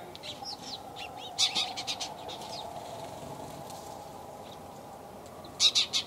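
Small birds chirping and calling in a tree, recorded binaurally through silicone ears on a foam dummy head. Sharp clusters of chirps come about a second and a half in and again near the end, over a steady low hum.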